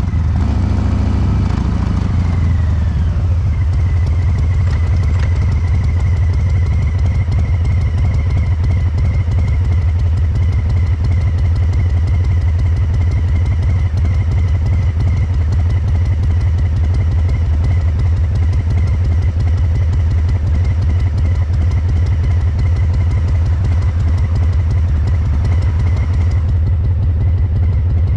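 Harley-Davidson Breakout 114's Milwaukee-Eight V-twin through a Cobra Neighbor Hater slip-on muffler: the revs fall over the first few seconds, then it runs steadily at low revs. The fuel injection is tuned for a loping three-beat (sanbyoushi) rhythm.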